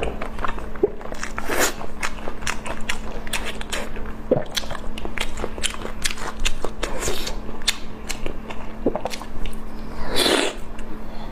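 Close-miked eating: irregular wet clicks and crunches of biting and chewing food, with one longer, louder bite or slurp about ten seconds in.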